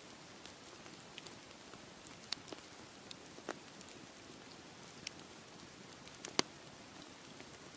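Campfire crackling, with irregular sharp pops and snaps, two louder ones about two and six seconds in, over a steady hiss.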